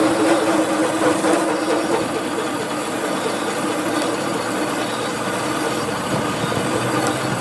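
Steady mechanical running and scraping of a machine tool working metal.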